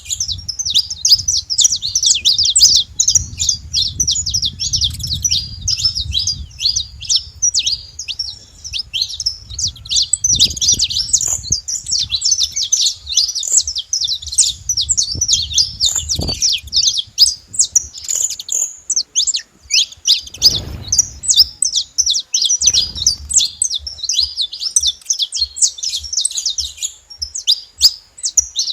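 Flock of saffron finches chirping and calling continuously, many short high notes overlapping, with a few low rumbles underneath.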